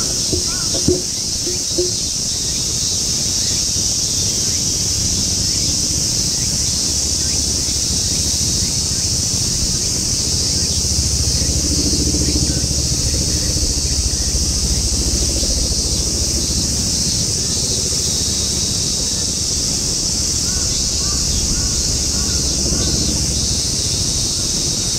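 Crows cawing several times in the first couple of seconds, and again faintly near the end. Underneath runs a steady outdoor ambience: a continuous high-pitched hiss and a low wind rumble.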